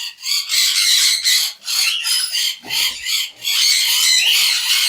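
A room of caged conures and cockatiels squawking and chattering together: many short, shrill overlapping calls with only brief dips.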